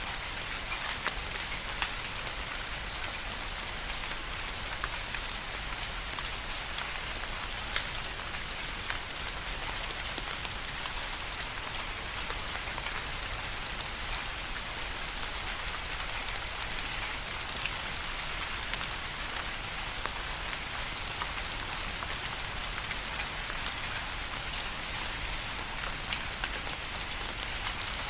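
Steady rain falling on a surface: an even hiss with many individual drop taps scattered through it.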